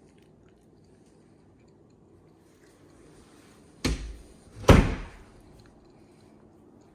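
A door being shut in a kitchen: two thuds less than a second apart, the second louder.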